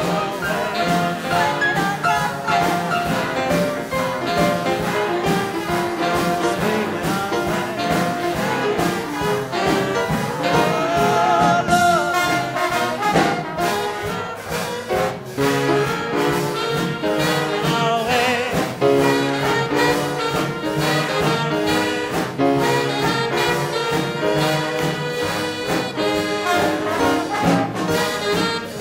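Big band playing hot swing-era jazz live, with trombones and trumpets leading over a steady beat.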